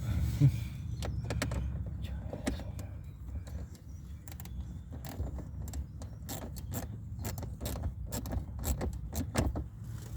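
Small metallic clicks and clinks of screws and a hand tool as screws are started into a blend door actuator, scattered irregularly over a steady low hum.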